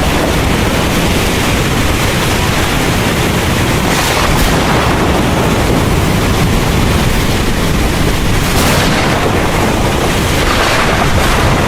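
Heavy rain pouring steadily, with a deep rumble of thunder underneath. The hiss swells briefly about four seconds in, again near nine seconds and toward the end.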